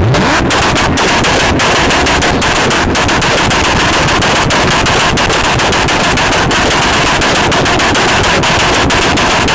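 A car engine held at high revs at a car meet, its exhaust firing a rapid, continuous string of pops and bangs like machine-gun fire. It is deafening throughout and stops abruptly just after the end.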